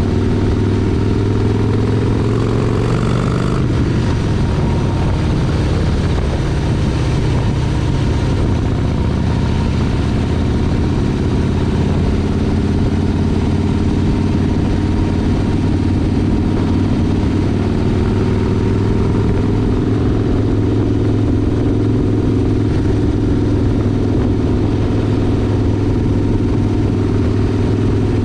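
Motorcycle engine running on the move; its pitch shifts about three to four seconds in, then holds steady.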